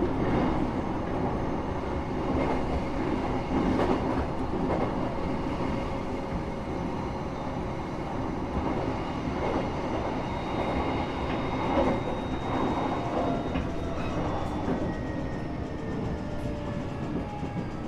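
Steady running noise of a train heard from inside the carriage: a dense rumble of wheels on rails. Near the end a faint whine falls in pitch.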